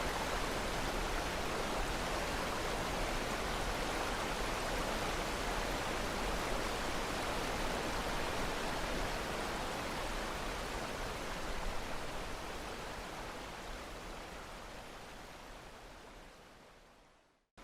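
Steady rush of running water, like a stream or waterfall, fading out over the last few seconds.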